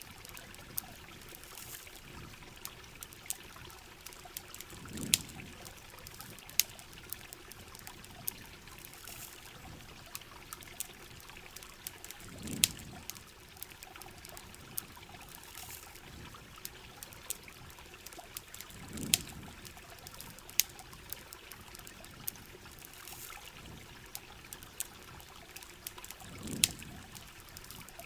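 Steady rain with trickling water, scattered with many sharp clicks. A low swelling rumble returns about every seven seconds.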